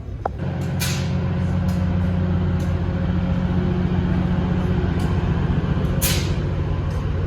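A large engine running steadily, growing louder about half a second in, with two short hisses of released air, one about a second in and one near the end.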